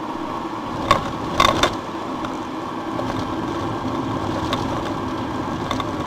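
A car driving, its engine and road noise heard through a dashcam, broken by a few sharp clicks or knocks, the loudest a quick cluster about a second and a half in.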